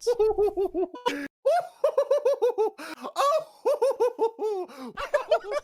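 A voice imitating an owl: rapid runs of short, pitched "hoo" calls, about seven a second, with a brief pause about a second in. The quick bouncing calls sound much like giggling.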